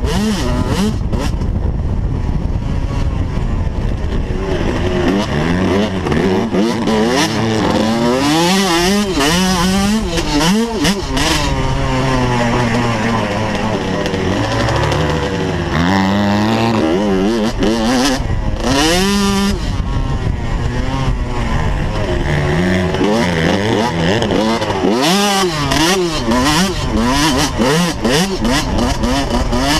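Dirt bike engine revving up and down over and over, its pitch climbing and dropping with throttle and gear changes.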